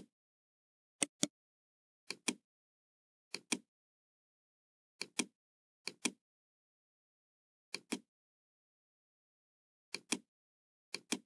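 Computer mouse clicks in close pairs, about one pair every second or two, with silence between them.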